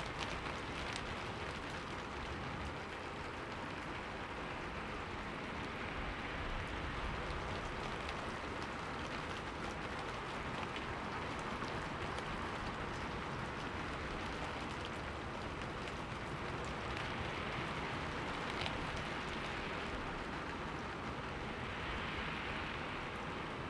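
Steady rain falling and pattering on a window pane, with a few faint drop ticks.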